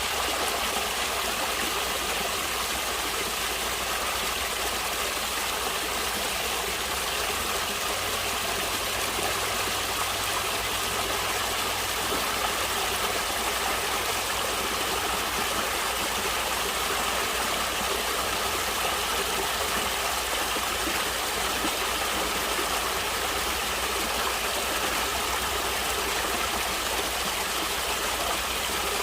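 Natural running water, a stream flowing steadily with an even, unbroken rushing hiss.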